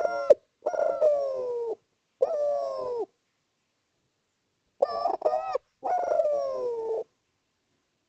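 Spotted dove (derkuku) cooing: two calls about five seconds apart, each a short stuttering note followed by long, slightly falling coos.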